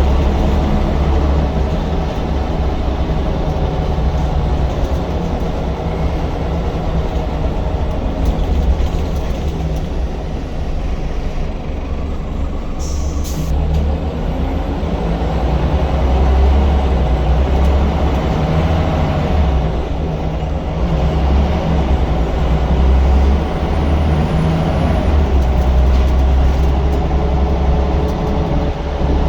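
Scania L94UB single-decker bus with Wrightbus Solar body running, its diesel engine droning steadily and rising and falling gently in loudness, with a short high hiss of air about thirteen seconds in.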